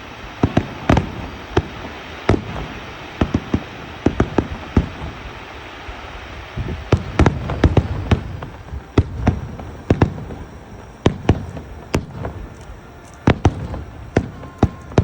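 Aerial fireworks bursting in rapid, irregular succession: many sharp bangs and cracks, thickening into a dense volley of heavier booms about seven seconds in.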